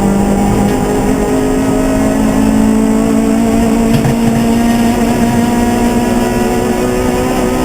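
Race car engine running at steady high revs. Its pitch steps up about a second in, then holds nearly level, with a brief click about halfway through.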